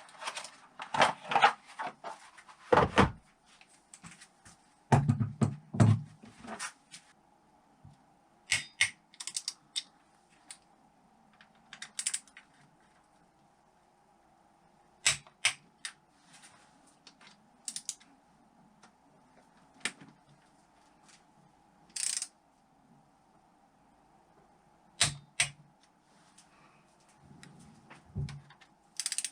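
Hand tools working screws on a motorcycle engine: scattered sharp metal clicks and knocks, some with a dull thud, over a faint steady hum.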